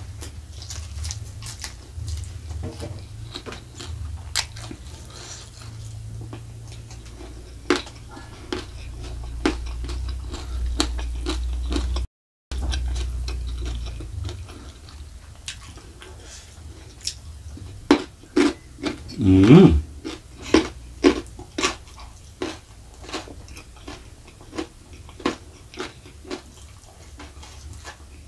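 Close-miked chewing and crunching of a mouthful of rice, fried spleen and raw vegetables eaten by hand, with many sharp, crisp crunches and wet mouth sounds. The crunches come thicker and louder in the second half.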